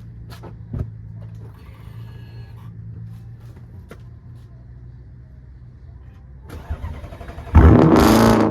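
Audi S8 engine with its mufflers removed starting up near the end: a brief crank, then a loud flare of revs whose pitch falls away as it settles. Before that, only a low steady hum and a few faint clicks.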